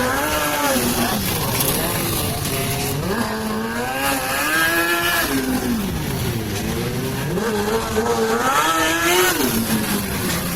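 Sport motorcycle engine revving up and down, its pitch rising and falling in long sweeps roughly every four seconds.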